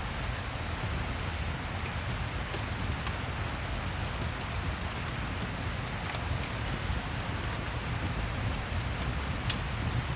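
Rain and fireplace ambience: a steady hiss of rain with scattered small clicks and crackles.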